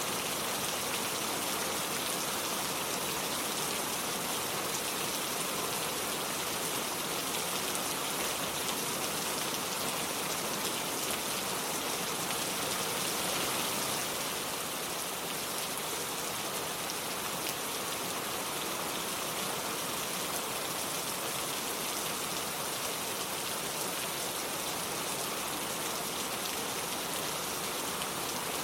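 Steady, gentle rain falling in a dense, even hiss of drops, easing very slightly about halfway through.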